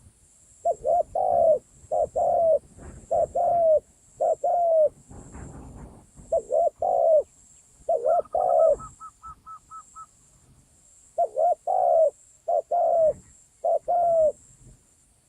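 A dove or pigeon cooing: low two-part coos, a short hooked note then a longer slightly falling one, repeated about nine times. A quick run of short, higher notes joins in around the middle, as in a bird-luring call.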